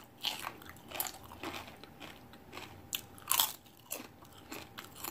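Crunching and chewing of a tortilla chip: irregular crisp crunches, the loudest a little past halfway through.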